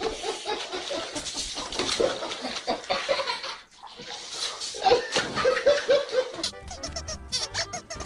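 Water splashing and sloshing in a barrel as a cat thrashes in it, with a person laughing in short repeated bursts. About six and a half seconds in this gives way to a cartoon soundtrack with quick, short repeated notes.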